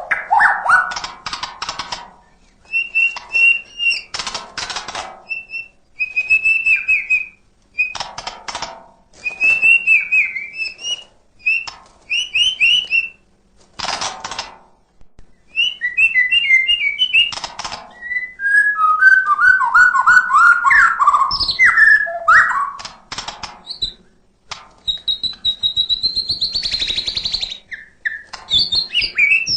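White-rumped shama (murai batu) singing a long, varied song of whistled phrases, quick rising and falling trills and sharp clicking rattles, delivered in bursts with short pauses between them.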